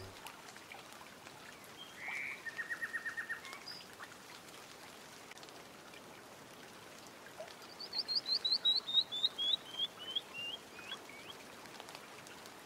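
Birds singing: a short, fast trill about two seconds in, then a longer song of about fifteen quick notes that fall steadily in pitch, starting about eight seconds in.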